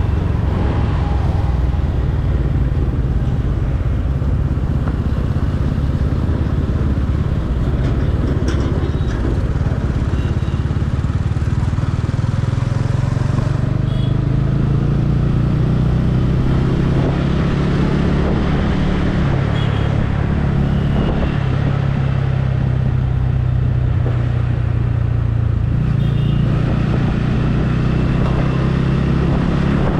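Motorcycle running steadily under way: a continuous low engine and road rumble.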